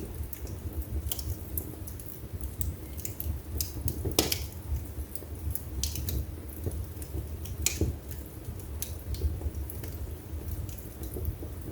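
Wood fire burning in a fireplace, crackling with irregular sharp pops over a low steady rumble of the flames; the strongest pops come about four seconds in and just before eight seconds.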